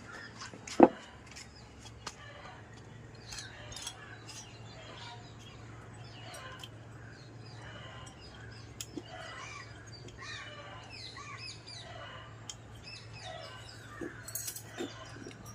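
Birds chirping on and off in the background, with one sharp, loud knock about a second in and a few lighter clicks from handling engine parts. A steady low hum runs underneath.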